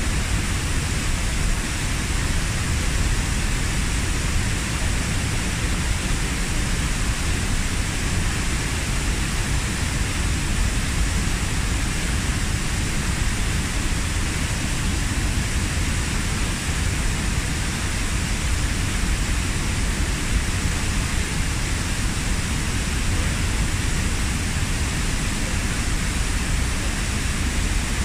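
The Kozjak waterfall's 15 m drop, water falling and splashing in a steady, unbroken rush.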